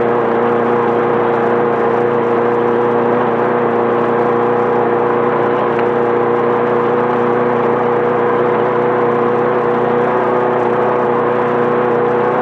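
Air-cooled 1600 cc Volkswagen flat-four of a Class 5/1600 Bug race car running at steady revs under load, with a dense rush of tyre, gravel and wind noise under it.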